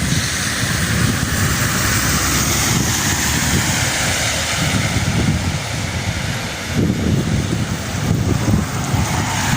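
Storm wind buffeting the microphone in gusts, over a steady hiss.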